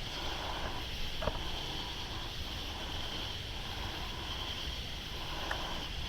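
Steady chorus of night insects, a continuous high buzz, over a low rumble, with a couple of faint ticks.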